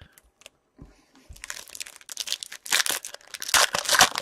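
Foil trading-card pack wrapper crinkling and crumpling in the hands, with some tearing; irregular rustles, sparse at first and then dense and loudest in the second half.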